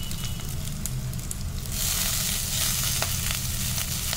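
Onions, green chillies and curry leaves sizzling in hot oil in a kadai. About a second and a half in, the sizzle turns suddenly much louder as the washed fenugreek leaves are tipped into the pan.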